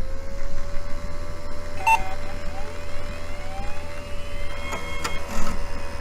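A small motor's steady whine over a low rumble, with a few short clicks.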